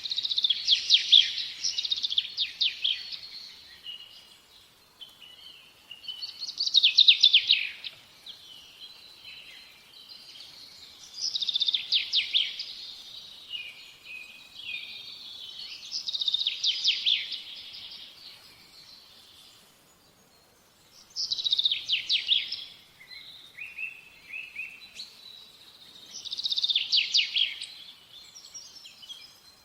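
A songbird singing six loud phrases of rapid trills, one about every five seconds, with softer chirps between them.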